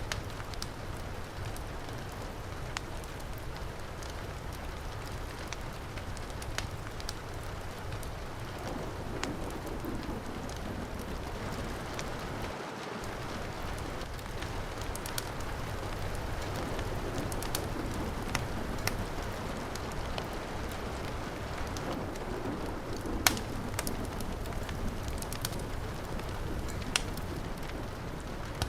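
Steady heavy rain with a wood fire crackling over it: scattered sharp pops, one louder pop about 23 seconds in.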